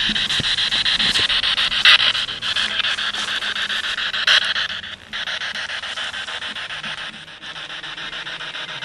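Radio-sweep spirit box scanning rapidly through stations, giving continuous choppy static with broken fragments. There are louder crackles about two and four seconds in, and the static drops a little after about five seconds.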